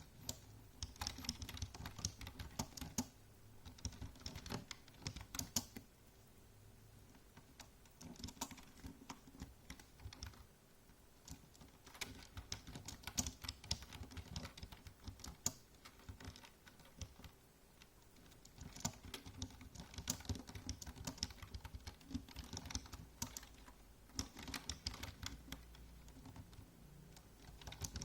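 Typing on a computer keyboard: runs of quick key clicks, broken by brief pauses a few times.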